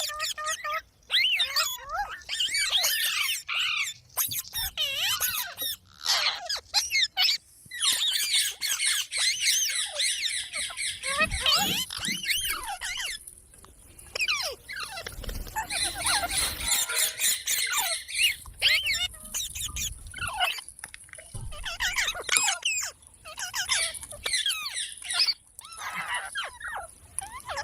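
A parrot chattering and squeaking in rapid runs of high, warbling calls broken by short pauses. The calls are densest from about eight to thirteen seconds in.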